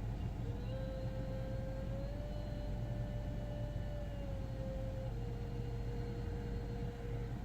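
A steady mechanical hum with a whine that rises slightly about two seconds in and drops lower about five seconds in.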